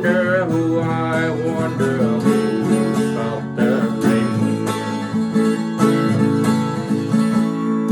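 Acoustic guitar strummed steadily through a song's closing instrumental bars, with a held sung note trailing off at the start.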